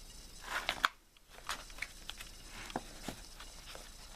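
A paper picture book being handled: a short rustle with two sharp clicks about half a second in, then scattered faint ticks and crackles.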